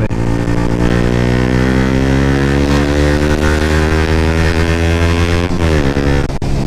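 125cc motorcycle engine pulling steadily, its pitch climbing slowly as the bike accelerates, then falling sharply about five and a half seconds in as it changes gear, with wind rushing past.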